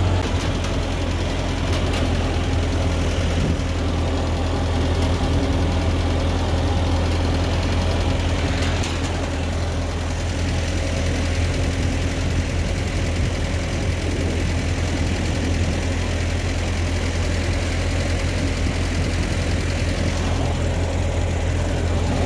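Ford 8N tractor's four-cylinder flathead engine running steadily while the tractor drives along, a constant low drone.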